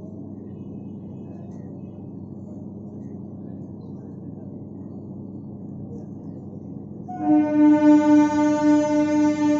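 EMU local train running with a steady low rumble; about seven seconds in, a loud train horn sounds and holds, its level wavering.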